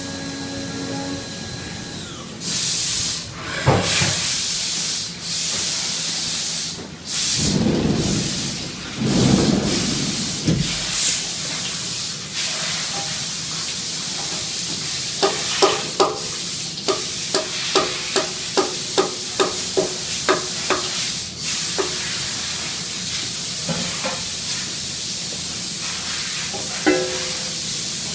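Hissing blasts of air or spray at a Haas CNC machine, several in a row lasting a second or two each, over a steady hiss. Partway through comes a run of light metallic taps, about two a second for several seconds, then a few scattered taps.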